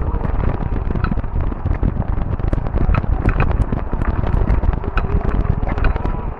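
Fat-tire e-bike rolling over a rough trail: a steady low rumble from the tyres and wind on the microphone, with frequent rattling clicks from the bike.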